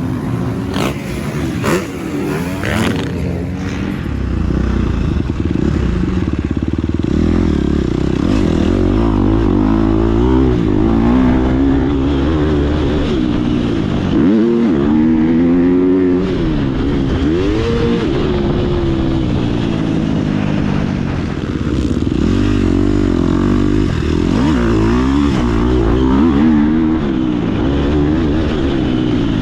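2019 KTM 250 SX-F single-cylinder four-stroke motocross engine under hard riding, the revs rising and falling again and again as the throttle is worked, with a few sharp knocks in the first few seconds.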